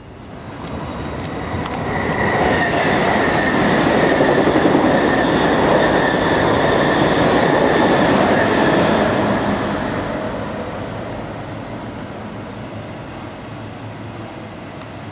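A train passes through a station. The rumble builds over the first couple of seconds, stays loud for about six seconds with a steady high whine on top, then fades away.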